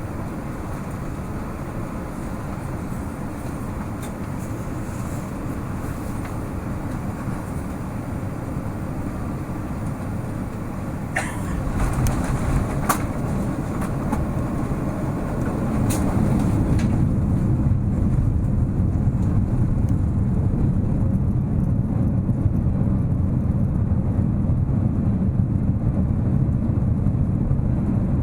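Passenger-cabin noise of a Boeing 787-9 airliner on landing: a steady rush of engines and airflow, a few knocks and a thump about eleven to thirteen seconds in, then a louder low rumble from about sixteen seconds on as the jet slows on the runway.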